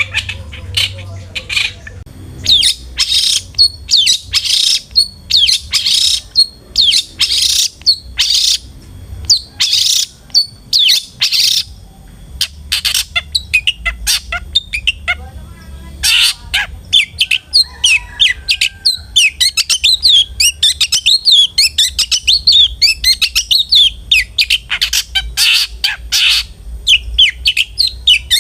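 Long-tailed shrike (cendet) calling: a series of loud, harsh, rasping calls, then a fast chatter of short notes, broken by a few more harsh calls near the end.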